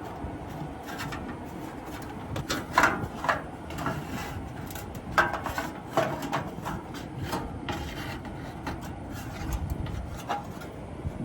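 Sheet-metal condenser coil cover of a rooftop RV air conditioner being lifted off and handled, with irregular scrapes and knocks of metal rubbing and bumping, over a steady low rumble of wind.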